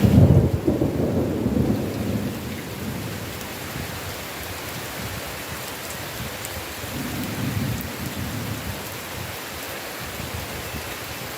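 Steady heavy rain with a loud thunderclap right at the start that rumbles away over a couple of seconds, then a second, softer roll of thunder about seven seconds in.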